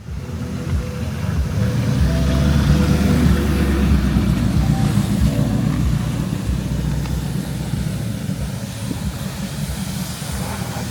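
BMW E30 with a swapped-in 4-litre V8, its engine running with a low, deep note as the car drives, building over the first few seconds and then easing off a little.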